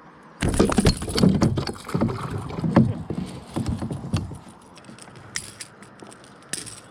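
A run of irregular knocking and clattering on a kayak, loud for about three and a half seconds, then a few scattered knocks.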